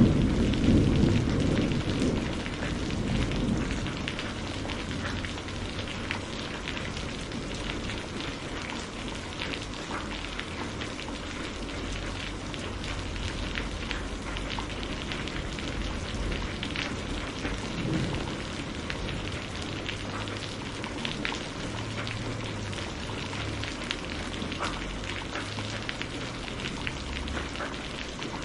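Steady rain falling, with many small drops ticking. A low roll of thunder rumbles and dies away over the first few seconds.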